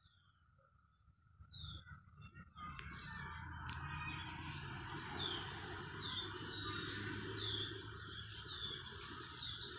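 Birds calling with short falling chirps, repeated every second or so, over a steady high insect tone. From about two and a half seconds in, a louder rushing noise with a couple of sharp clicks comes in over them and lasts to the end.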